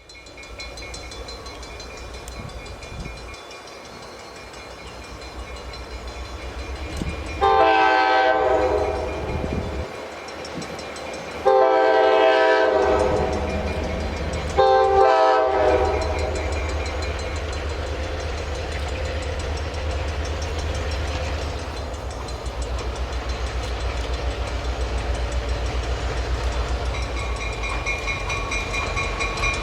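Diesel locomotive horn sounding three blasts, the first two long and the last short, each a chord of several tones, over the locomotive's low engine rumble. The rumble grows louder in the last third.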